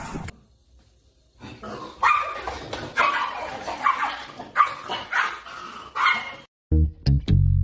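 A dog barking and yipping in a string of short calls. It stops abruptly and music with a heavy low beat starts near the end.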